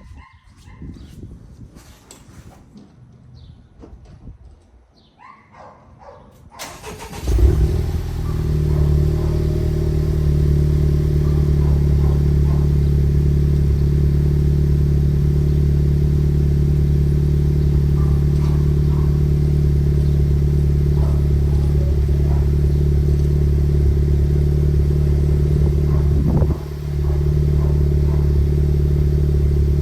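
Honda Civic Type R FK8's turbocharged 2.0-litre four-cylinder cold-starting through a Greddy Supreme SP cat-back exhaust with stock downpipe and front pipe. After a few faint knocks, the starter cranks briefly about seven seconds in and the engine catches with a flare. It then settles into a loud, steady cold idle, with one brief dip in level near the end.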